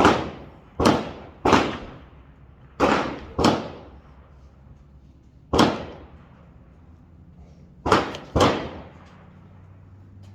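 Rifle gunshots at a shooting range, about eight in irregular succession, some in quick pairs, each trailing off briefly.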